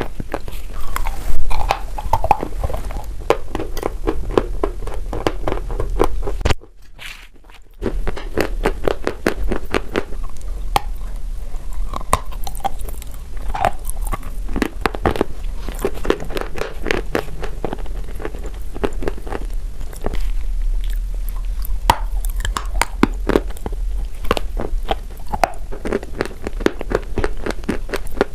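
Close-up chewing and biting of wet chalk topped with a dark creamy paste: dense, irregular crunching and crackling in the mouth, with a brief pause about seven seconds in.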